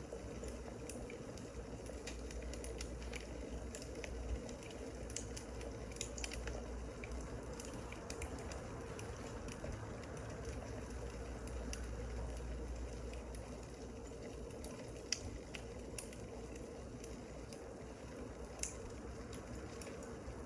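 Wood fire crackling: a steady low rush with scattered small crackles and a few sharper pops.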